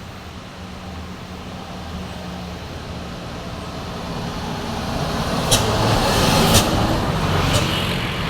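Heavy diesel truck engine labouring slowly uphill, growing louder as it draws near. Near the end come three short, sharp hisses about a second apart.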